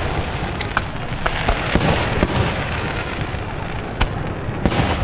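Fireworks display: a quick string of sharp bangs and pops in the first half, then two more near the end, over a continuous crackling hiss.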